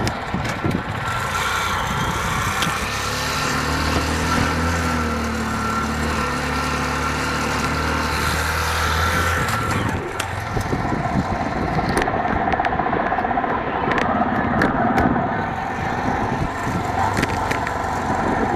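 Motorcycle engine running on the move amid street traffic, with a steady engine drone from about three to nine seconds in and a few sharp clicks near the end.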